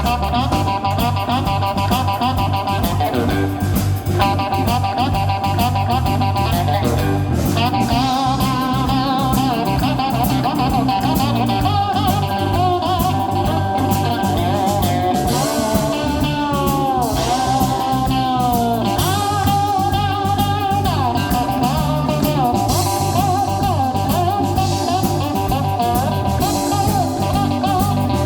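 Live blues on a slide-played cigar box guitar, its notes gliding and bending, over a steady bass line.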